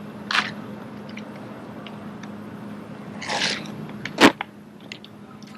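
Sharp slaps and knocks of drill rifles being handled and caught during rifle drill, a few separate strokes with the loudest about four seconds in, over a steady low hum.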